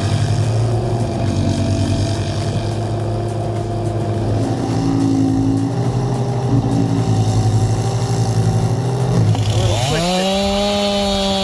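An engine runs steadily at a low, even pitch. About ten seconds in, a chainsaw revs up with a quick rising whine and holds at a high, steady full-throttle pitch.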